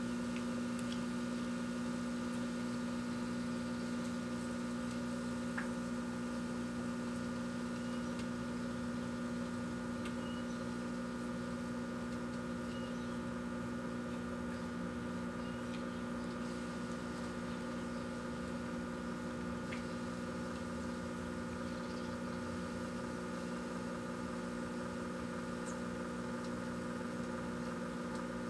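Kenmore microwave oven running: a steady electrical hum with fan noise, unchanging throughout, with a few faint ticks scattered through it.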